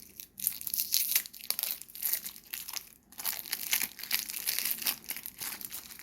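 Plastic wrapping crinkling and tearing in hands as a pack of board-game cards is unwrapped, with many quick, irregular crackles.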